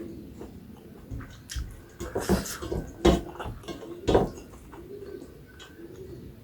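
Close-up eating sounds of chewing and slurping a rice-and-curry meal, with louder wet smacks about two, three and four seconds in. Behind them a bird coos, a low call repeating every second or so.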